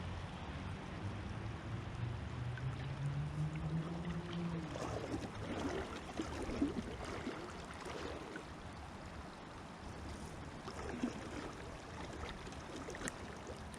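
Steady rush of river water. Over the first few seconds a pitched hum rises in pitch, and in the middle comes a run of irregular short sounds, with a couple of sharp ticks near the end.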